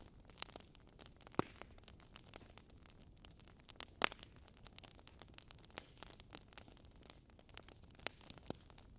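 Wood fire crackling in a fireplace: faint, irregular snaps and clicks, with a few louder pops about a second and a half in, about four seconds in and near the end.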